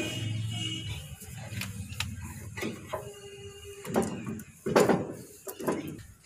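Irregular knocks and clatter of hand tools and steel parts being handled during kingpin bush work on a JCB front axle, with a short steady tone about three seconds in.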